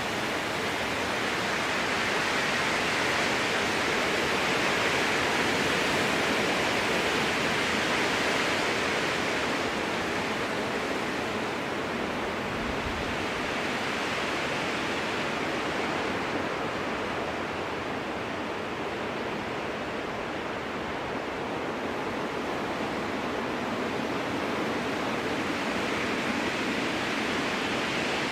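Strong wind blowing through conifer trees, a steady rushing hiss of the branches. It swells in the first few seconds, eases off in the middle and builds again near the end.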